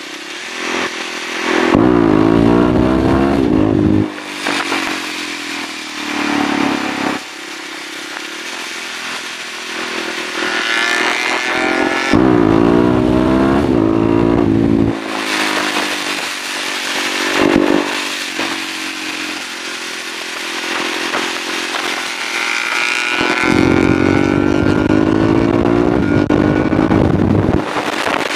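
Husqvarna SMR 630 supermoto's single-cylinder four-stroke engine accelerating hard in three long pulls, its pitch climbing and then dropping back between them, with wind noise rushing over the microphone.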